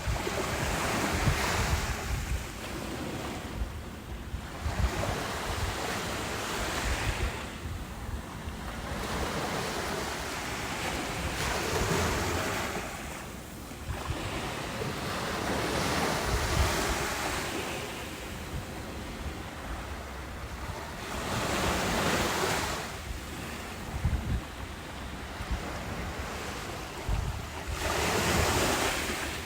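Ocean waves breaking and washing up a beach, each surge swelling and fading every few seconds, with wind buffeting the microphone as a low rumble.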